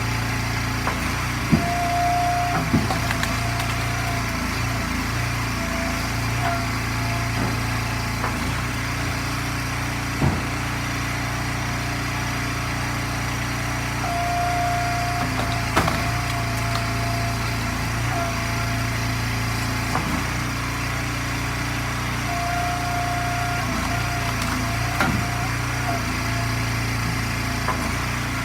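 Engine-driven hydraulic log splitter running steadily, with scattered sharp knocks of ash wood being split and handled. A higher whine comes and goes a few times.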